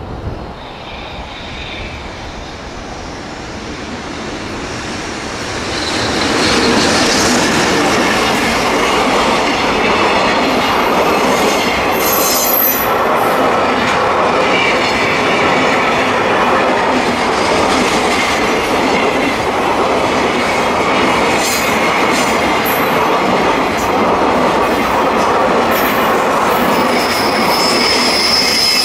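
Container freight train hauled by a JR Freight EH500 electric locomotive, growing louder as it approaches over the first six seconds, then its wagons running steadily past close by. Brief high wheel squeals come about twelve seconds in and again near the end.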